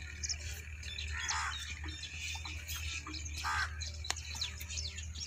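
Birds chirping and calling outdoors, with two louder calls about a second in and again past three seconds, over a steady low hum.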